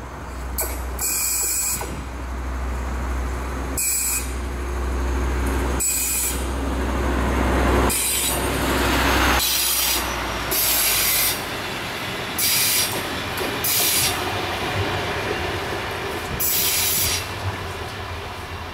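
Work train with a BAM noise-measuring coach passing: wheels rumbling on the rails, with short high-pitched wheel squeals every second or two. A low steady hum fades out about halfway through.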